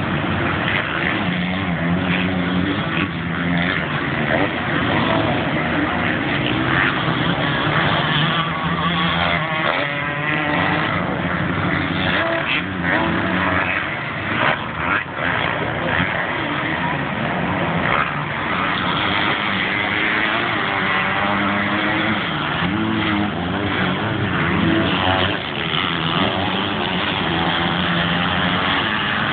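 Several motocross bikes racing, engines revving up and down as they go through the gears, the rising and falling pitches of different bikes overlapping all the way through.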